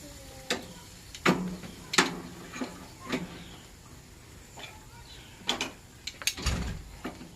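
Cooking utensils clicking and clanking at a barbecue grill: about a dozen irregular sharp knocks, with a duller low thump near the end.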